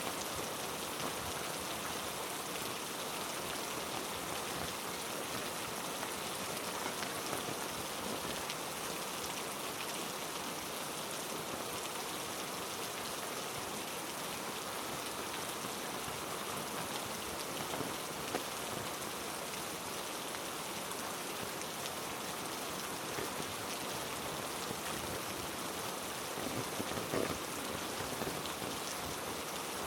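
Heavy rain falling steadily, a dense even patter with a few slightly louder drops now and then.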